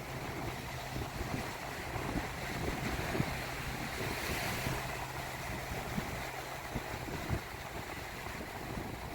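Small waves washing onto a shallow sandy beach, with wind on the microphone; a wave's hiss swells and fades about four to five seconds in. A low steady drone runs underneath.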